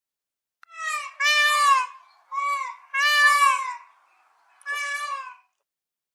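A bird calling five times, each call lasting about half a second, in two pairs and then a single call near the end.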